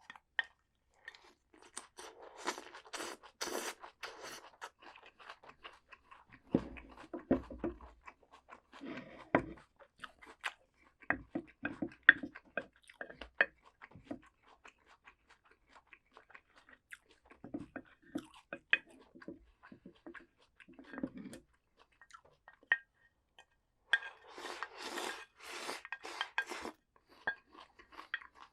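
Close-up eating sounds of someone chewing crunchy vegetables. Bursts of loud crunching come a couple of seconds in and again near the end, with softer, wetter chewing and small clicks in between.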